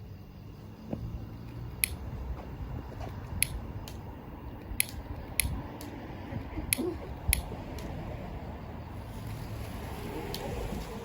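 A pocket lighter being struck over and over, about eight sharp clicks at irregular intervals, while someone tries to light a handheld firework.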